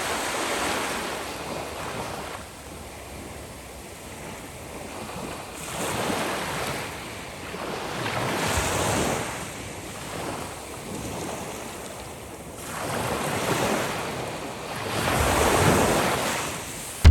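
Sea waves washing onto the shore, the sound rising and falling in slow surges every few seconds.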